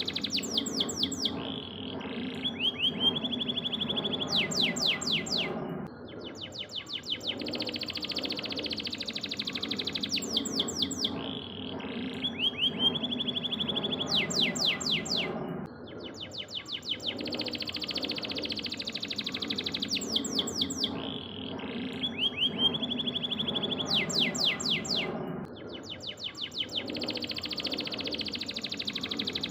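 Canary singing: fast trills alternate with held whistled notes. The same phrase sequence repeats about every ten seconds, as in a looped training recording, over low background noise.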